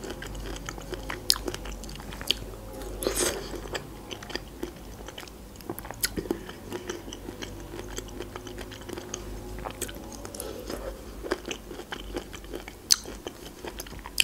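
A person chewing juicy pineapple ring close to the microphone: irregular wet, squelching clicks of mouth and teeth, a little louder twice, about three seconds in and near the end.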